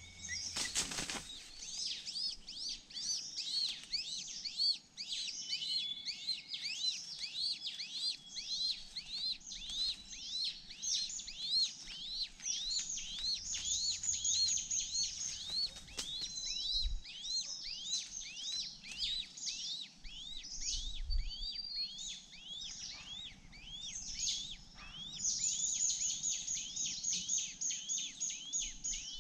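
Birds chirping: a fast, continuous series of short, high, arching chirps, about three a second, with other calls overlapping in places.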